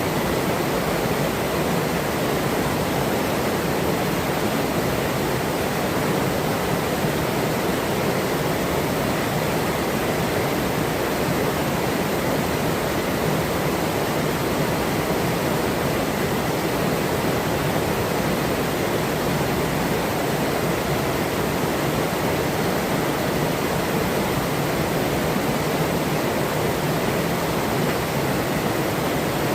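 Forest river flowing: a steady, unbroken rush of running water, fullest in its lower, deeper range.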